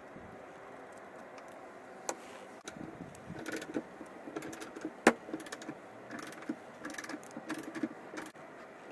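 Small parts and tools being handled on a workbench: irregular clicks and light rattling, with one sharp click about five seconds in.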